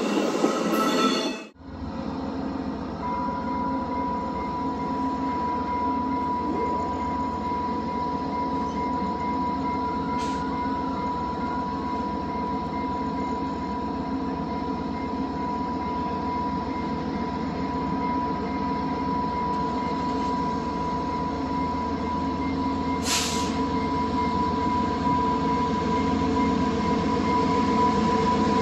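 Via Rail passenger train rolling by, a steady rumbling rush with a steady high-pitched whine that sets in a few seconds in and holds; it grows slightly louder near the end. A different, louder sound cuts off about a second and a half in.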